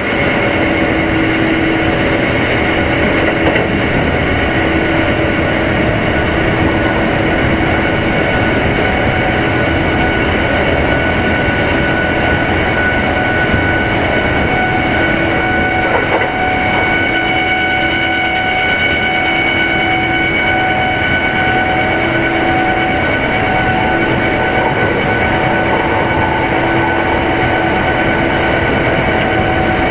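Kintetsu 2610 series electric train heard aboard its motor car while running at a steady speed. Traction motor and gear whine holds an even pitch over the rumble of the wheels on the track.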